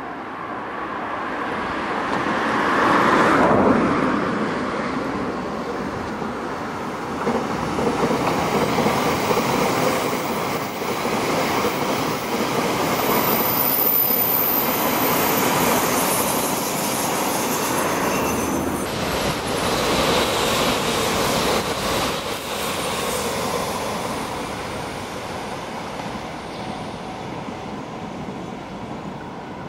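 Limited-express electric train running past on the line: its running noise builds, holds, and then fades away, with a run of clicks from the wheels about two thirds of the way through.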